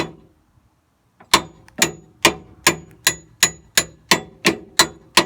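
A metal tool used as a makeshift hammer, banging metal on metal to drive out the tension rod's bolt under a Nissan 240SX. One blow, a pause of about a second, then a steady run of about ten ringing strikes, roughly two and a half a second.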